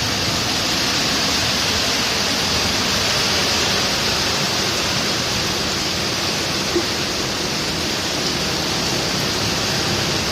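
Rain falling steadily, a loud, even hiss.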